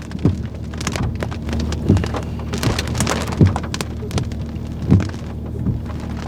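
Rain falling, with scattered heavy drops striking sharply close to the microphone, several a second, over a steady low hum.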